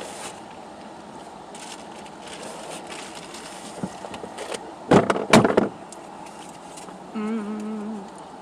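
Steady background hum of outdoor traffic and wind through open car windows, broken about five seconds in by a loud, close crackle of handling or rustling, with a short wavering hummed note near the end.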